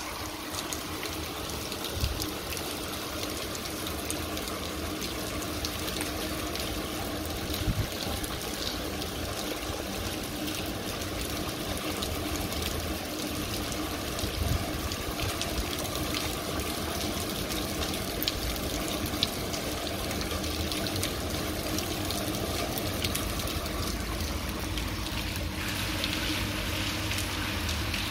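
Rain falling on a wet cobbled street: a steady hiss of rain and runoff, with a few sharp taps of drops hitting close by.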